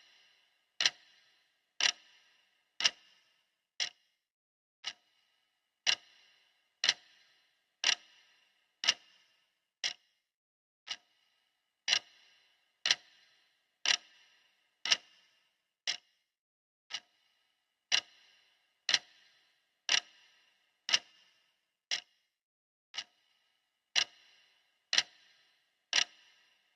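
Clock-tick sound effect of a countdown timer: one sharp tick each second, with every few ticks noticeably quieter than the rest.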